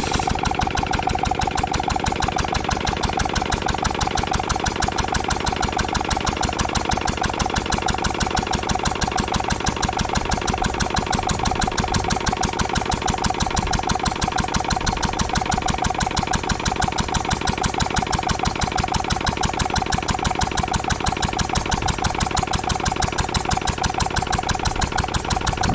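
Ruston & Hornsby 2PS petrol-engined portable air compressor running steadily, with a rapid, even beat.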